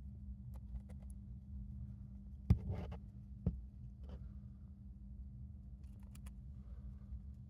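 A few faint, scattered clicks and soft rustles over a steady low hum. The loudest click comes about two and a half seconds in, followed by a brief rustle and another click about a second later.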